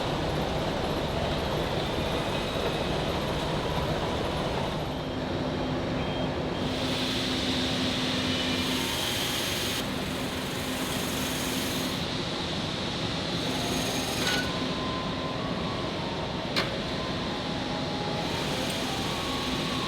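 Steady running noise of industrial machinery with a low hum, its tone shifting abruptly several times. One sharp click comes late on.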